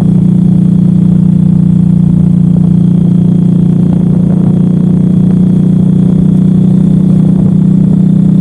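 Suzuki M109R's 1783 cc V-twin engine running steadily, its note holding one pitch with no revving.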